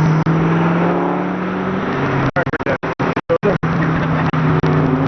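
Car engine running at a steady speed, its sound cutting out in a string of brief dropouts about two to three and a half seconds in.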